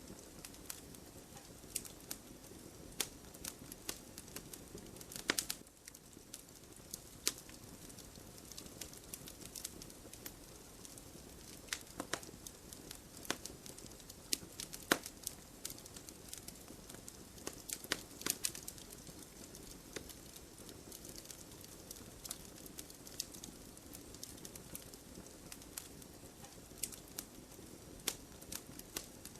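Wood bonfire crackling: irregular sharp pops and snaps over a soft steady hiss of burning.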